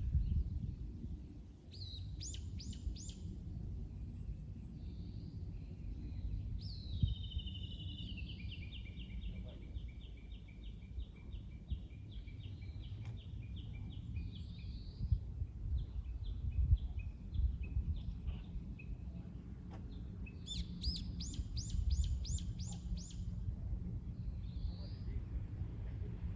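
Songbirds singing in rapid trills of repeated notes: a short trill about two seconds in, a long trill that drops in pitch and then runs on steadily for about seven seconds from a quarter of the way in, and another short trill near the end. Under the birds is a low, steady rumble of lake waves that swells and eases.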